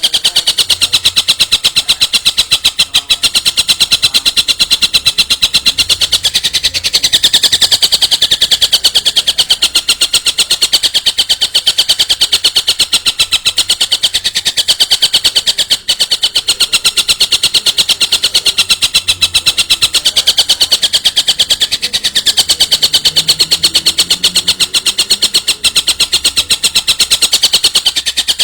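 A bird's continuous rapid rattling trill: a fast, even train of sharp, high-pitched pulses that keeps going without a break, swelling slightly in places.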